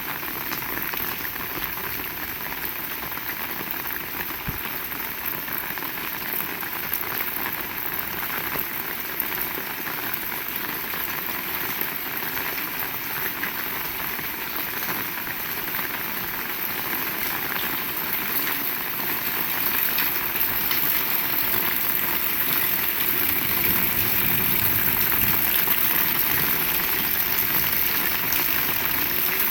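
Heavy rain falling, a steady hiss with many small drop impacts, growing slightly louder about two-thirds of the way through.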